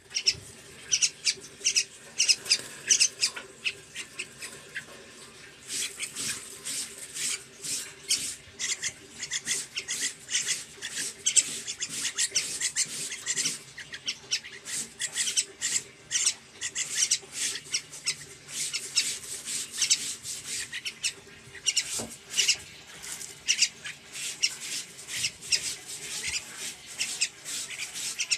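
Male sooty-headed bulbul (trucuk) singing a fast, chattering run of short, sharp chirps and whistles, in bursts with brief pauses.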